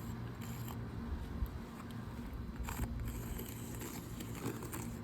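Light scrapes and taps from handwork on asphalt roof shingles, a few sharper ones about two and a half and five seconds in, over a steady low background rumble.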